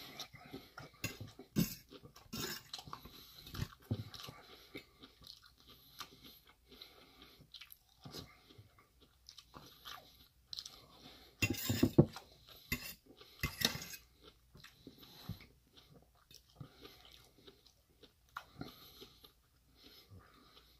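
Close-up eating sounds: chewing and crunching a mouthful of tofu curry, with the fork clicking and scraping against a stainless steel bowl. Short, irregular sounds, a few louder ones around the middle.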